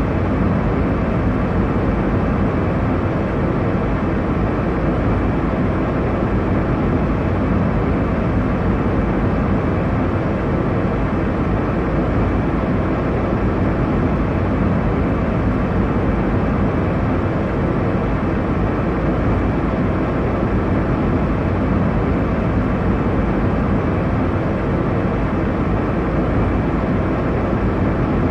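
Steady airliner cabin noise in cruise: an even, deep rushing of engine and airflow noise, unchanging throughout.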